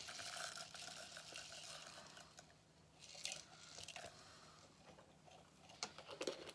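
Faint rustling and crinkling from craft materials being handled, with a few light clicks.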